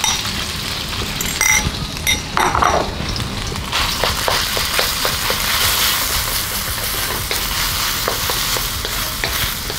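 Minced pork sizzling as it fries in oil with garlic in a wok, with the knocks and scrapes of a wooden spatula stirring it. The sizzle grows louder about four seconds in.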